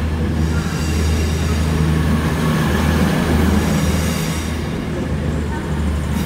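A train at a station platform, its engines running with a steady low drone and hum.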